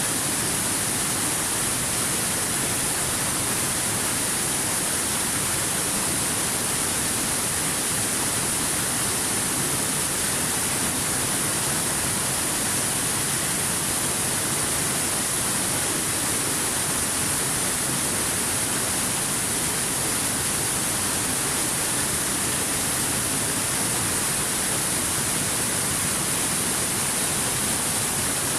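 Waterfall: water falling in a steady, unbroken rush with a hissy, bright edge.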